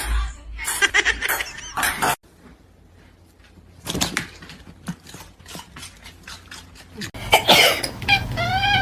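A mix of rustling, clicks and knocks from separate clips, then near the end a cat starts meowing with a rising, wavering pitch.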